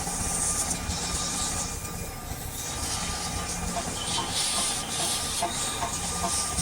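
Hissing in long stretches that pause about two seconds in and then return, over a steady low hum, with scattered light clicks in the second half.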